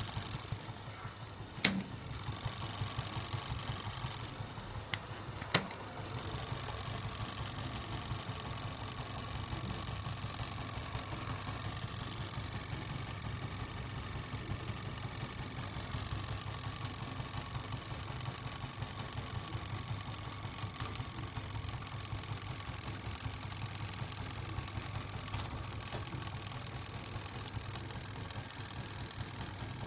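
Home-made gamma-type Stirling engine running steadily with a fast, even rhythm. Two sharp clicks come about two seconds and five and a half seconds in.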